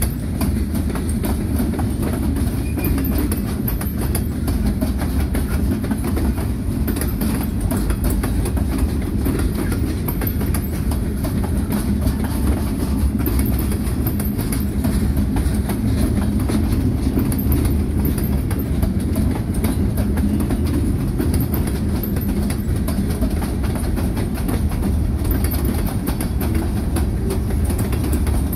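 Freight train cars rolling steadily past at close range: a constant low rumble with the clickety-clack of steel wheels over the rail joints.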